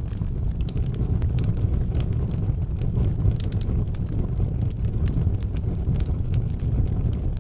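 Wood fire burning in an outdoor fireplace, with scattered sharp crackles and pops over a steady low rumble.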